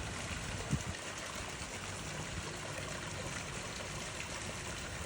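Steady trickling, running water, with one short low thump under a second in.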